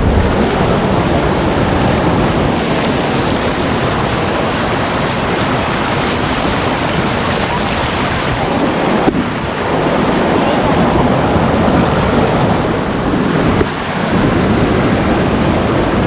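Waterfall cascading over rock at close range: a loud, steady, unbroken rush of falling water.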